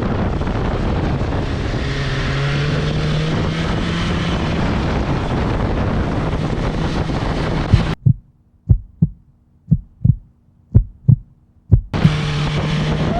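Wind rush and a motorcycle engine running steadily while riding, the 2020 BMW S1000XR's inline-four. About eight seconds in the noise cuts out for some four seconds of near quiet with a faint hum and a string of about ten sharp thumps, then the wind and engine noise comes back.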